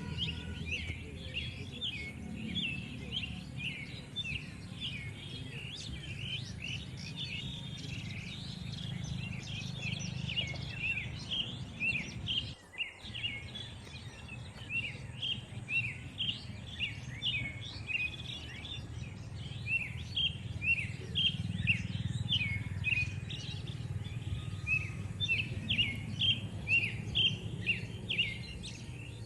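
Dense chorus of many small birds chirping continuously in quick short notes, over a low steady background rumble. Everything drops out briefly near the middle.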